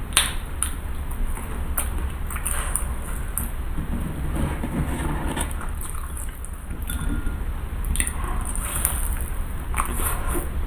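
Close-miked mouth sounds of someone biting and chewing fried cireng (tapioca fritters stuffed with shredded chicken), with scattered sharp clicks and crunches. A steady low hum runs underneath.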